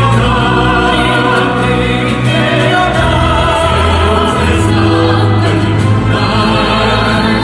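Group of voices singing a rousing chorus with long held notes over a loud backing track.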